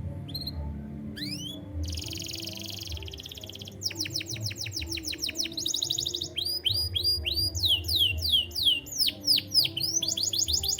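Domestic canary singing a varied song of repeated phrases. It moves from a fast buzzy trill to a quick run of downward-sweeping notes, another short trill, then slower sweeping notes, and ends in a trill.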